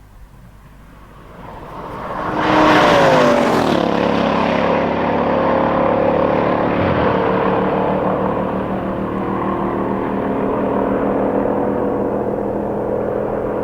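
Mercedes-AMG V8 engine flaring up loudly about two seconds in, its pitch falling back as the revs drop, then running steadily until it cuts off near the end.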